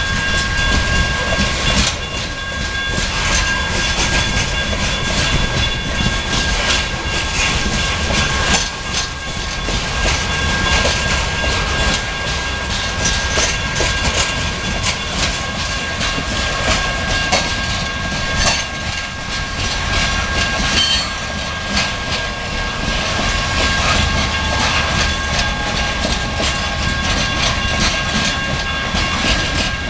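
Loaded coal hopper cars rolling steadily past: a continuous low rumble with frequent clicking and clatter of wheels over the rail joints, and a steady high ringing tone running through it.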